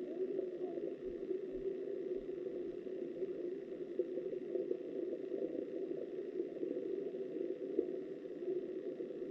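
River water flowing, heard through an underwater camera: a steady, dull rush with no distinct events.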